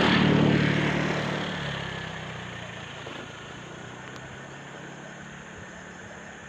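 A motor vehicle passing close by. Its engine and road noise are loudest in the first half second, then fade away over the next couple of seconds into a steady low hum.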